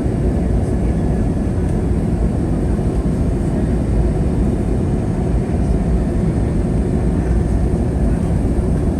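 Steady low rumble of airflow and engines heard inside the cabin of an Airbus A321neo in flight, an even, unbroken noise.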